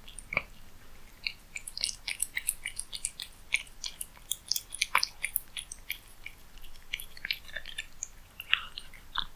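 A cat eating close to the microphone: a quick run of crisp chewing clicks and mouth smacks, densest in the first half and thinning out, with a few louder clicks near the end.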